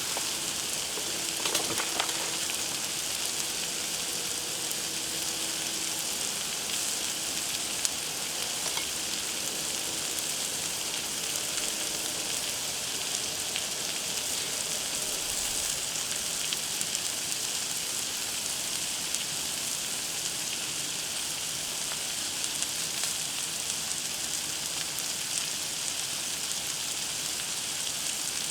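Food frying on a Blackstone flat-top griddle: a steady, even sizzle.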